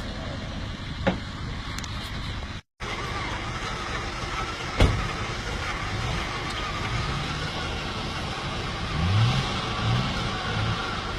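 Off-road 4x4's engine running, revving in short rising bursts in the second half, with two sharp knocks early on.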